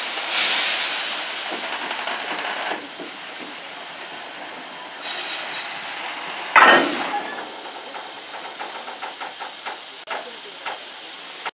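Steam locomotive letting off a loud rush of steam near the start that fades over a couple of seconds. A sharp blast follows about six and a half seconds in, then a run of short, regular beats.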